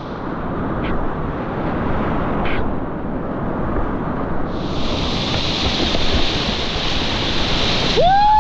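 River water rushing through a rapid, with wind buffeting the microphone. Near the end a person's voice calls out over it.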